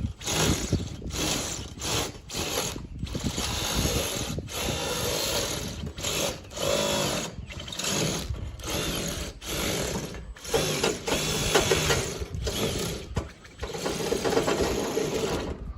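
Electric power shears cutting through roofing sheet, a fast chattering run of cutting in short stretches with brief pauses between them.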